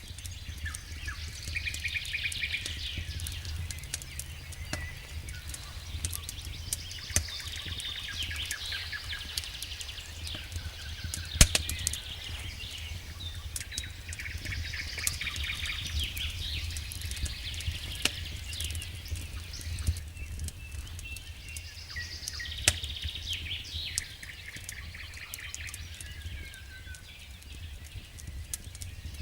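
Wood fire crackling in a fireplace, with scattered sharp pops, the loudest about eleven seconds in, over a steady low rumble. High chirping sounds come and go every few seconds.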